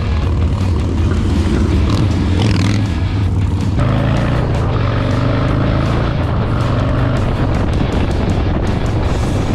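Motorcycle engine running while riding, with music laid over it; the sound changes abruptly about four seconds in.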